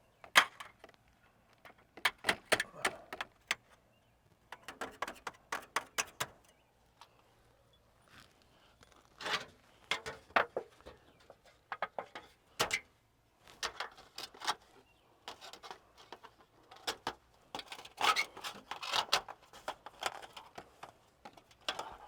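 Intermittent clattering: groups of short knocks and clinks from objects being handled, with quiet gaps between them.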